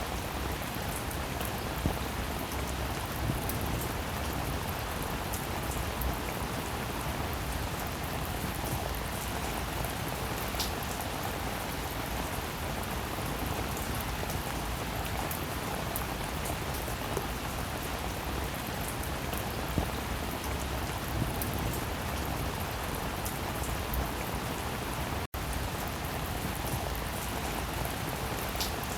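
Steady rainfall, an even hiss with individual drops ticking sharply now and then. The sound cuts out completely for a split second about 25 seconds in.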